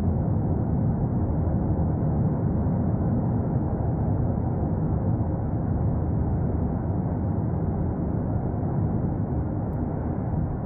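Cumbre Vieja volcano erupting: a steady, low, even roar with no breaks.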